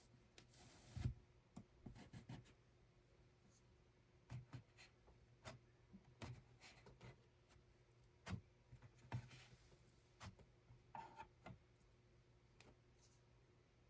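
Sparse, irregular light clicks and soft knocks of hand work at a weaving loom, over a faint steady hum.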